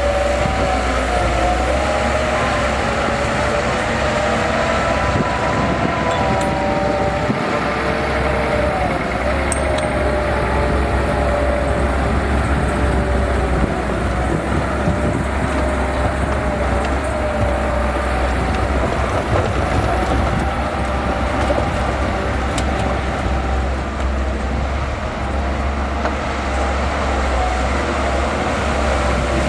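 Bulldozer's diesel engine running steadily under load as it works, a constant low drone with a wavering higher whine over it.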